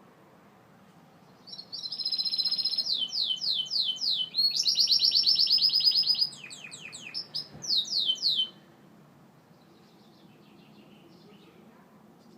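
Gloster canary singing one phrase of song of about seven seconds: a fast trill, a run of quick falling notes, another rapid trill, then more falling notes. Only faint soft chirps follow.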